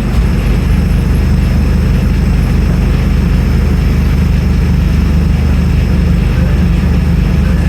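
Scania N310UA articulated city bus's diesel engine running steadily as the bus drives, a continuous low drone with road and drivetrain noise over it.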